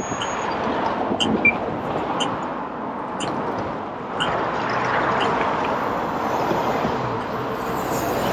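Steady wind and road noise from riding a motorcycle in traffic, growing louder about four seconds in, with faint clicks about once a second.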